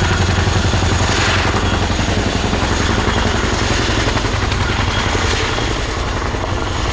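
Boeing Chinook HC6 tandem-rotor, twin-engine helicopter running close by as it rolls along the runway on its rear wheels. Its rotors beat in a fast, even throb over a steady turbine rush, easing slightly near the end.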